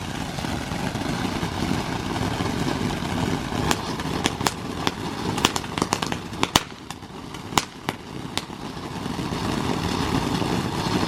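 A ground firework burning with a steady rushing hiss. A string of sharp crackles and pops breaks out from about four to eight and a half seconds in.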